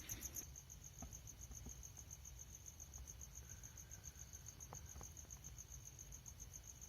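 Crickets chirping: a steady, fast, evenly pulsing high trill, faint, with a couple of soft ticks.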